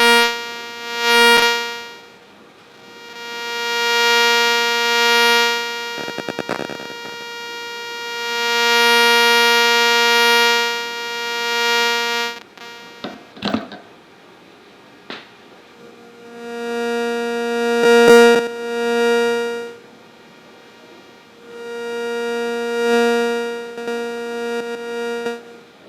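Interference buzz from a Rode Wireless Go II picked up by a nearby microphone: a steady, fixed-pitch buzz with many overtones that swells and fades in four long stretches. A few ticks and knocks fall between and within the stretches.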